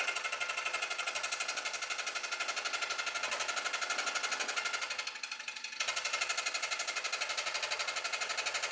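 Scroll saw cutting thin copper sheet: a fast, even reciprocating chatter of the blade, which stops briefly about five seconds in and then starts again.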